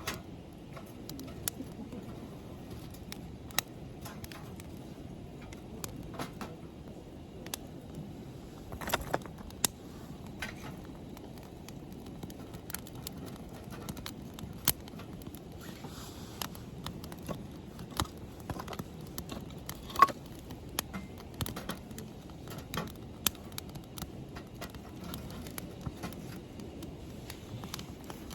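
Wood campfire crackling, with irregular sharp pops over a low steady rustle; the loudest pop comes about two-thirds of the way through.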